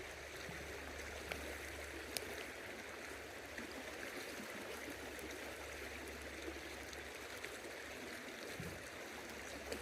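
River water flowing steadily, with a few faint clicks over it.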